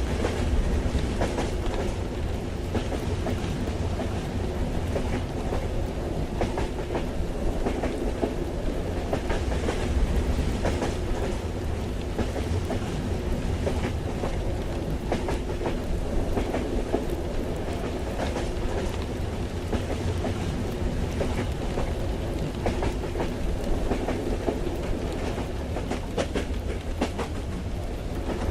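Ambience inside a moving passenger train: a steady low rumble with scattered clicks from the wheels on the rails, with rain.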